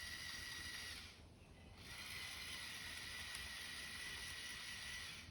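LEGO Technic Control+ electric motors driving the excavator's plastic tracks, a steady whirr with a high whine. It stops for just under a second about a second in, then runs again until just before the end.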